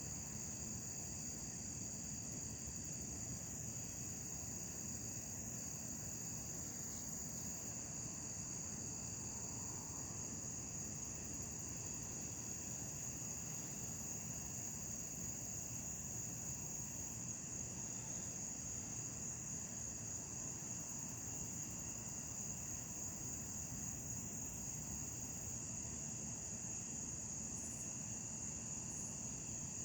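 Steady chorus of night insects, a continuous high-pitched trilling that does not let up, over a faint low background hum.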